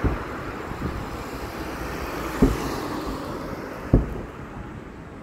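Fireworks shells bursting: sharp booms at the start, about two and a half seconds in, and a louder one about four seconds in, over a continuous low rumble.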